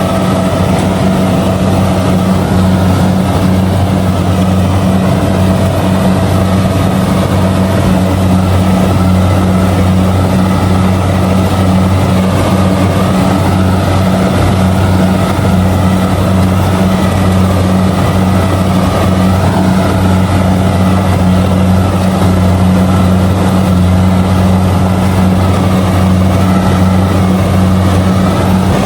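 Kubota DC70G combine harvester running steadily while harvesting rice, its diesel engine holding an even, deep drone with machinery noise over it.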